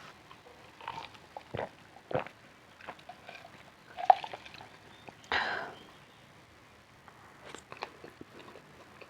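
A person eating close to the microphone: bites and chewing with a few sharp crunches, and a longer noisy burst about five seconds in.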